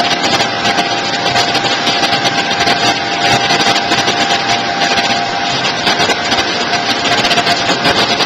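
Vegetable cutter-washer machine running: a loud, even motor noise with a steady whine.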